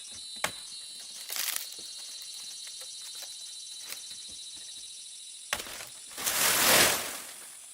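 Insects chirring steadily in high-pitched bands. A sharp click comes about half a second in, a short rustle after a second, and a loud rushing noise lasting about a second near the end.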